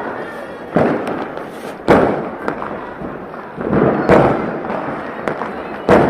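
Firecrackers going off: about five sharp bangs a second or so apart, each fading away over about a second.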